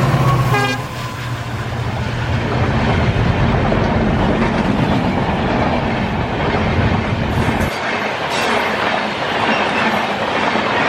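EMD diesel locomotive-hauled passenger train passing. A horn note ends less than a second in, followed by engine rumble and steady wheel and rail noise.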